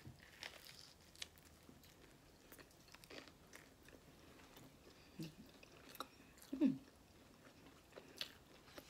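A person chewing a first bite of a burger that took in mostly bun, lettuce and tomato: faint, scattered mouth clicks, with two short low hums in the second half.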